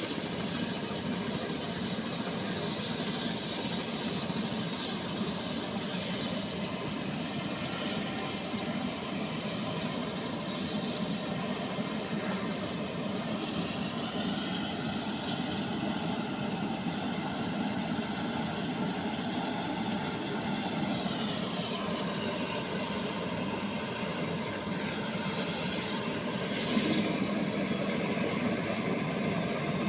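Helicopter flying close by: a steady engine-and-rotor drone whose pitch dips and rises again past the middle and near the end as it moves.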